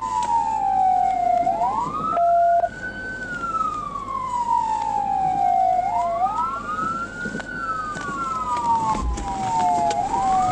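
Police cruiser siren in wail mode, rising and falling slowly about every four seconds, with two overlapping sweeps a little out of step. A short steady tone sounds briefly about two seconds in.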